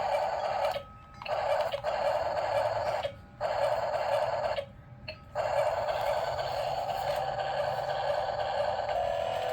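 Toy monster truck's electric motor whirring in four spurts, stopping briefly between them, with the longest run in the second half.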